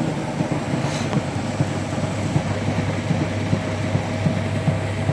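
Hotpoint washing machine on its spin cycle: the drum turns with a steady low hum and repeated knocks, a quite unbalanced spin.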